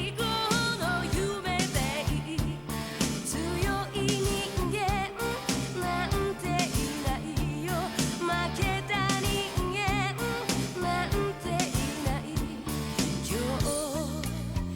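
A song: a singer with vibrato over a band with a steady drum beat.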